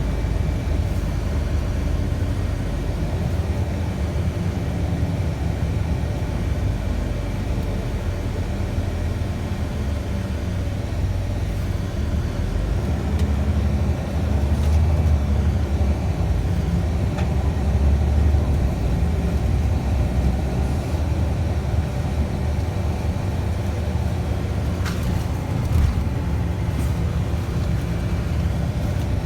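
Scania city bus riding along, heard from inside the cabin: the engine and running gear keep up a steady low rumble. It swells twice about midway, and a few short clicks come near the end.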